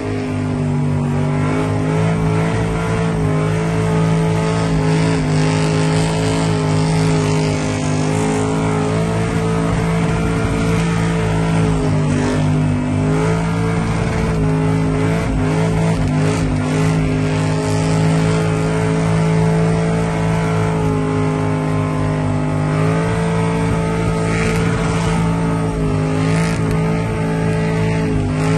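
Ford Escort's V8 engine held steady under load through a burnout, heard from inside the cabin, its pitch dipping briefly several times and coming straight back up.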